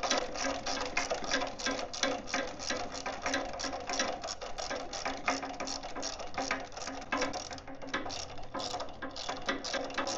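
Hand ratchet wrench clicking in a quick, steady run of clicks, several a second, as it works bolts.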